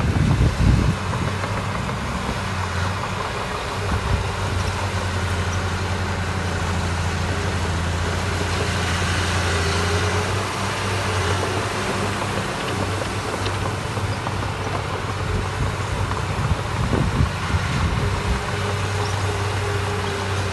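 Heavy diesel engine of construction machinery running steadily at an even, low pitch, with brief low rumbles near the start and about three quarters of the way through.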